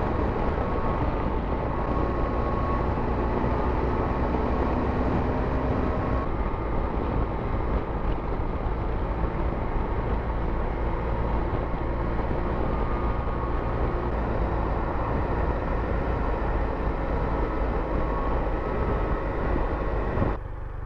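Motorcycle engine running at road speed, with steady wind and road noise. Just before the end the noise drops off suddenly, leaving a lower, steadier hum.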